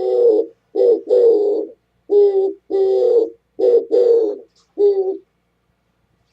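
Oriental turtle dove singing its cooing song: a phrase of low hoots, short and longer notes alternating, about eight in all, stopping about five seconds in.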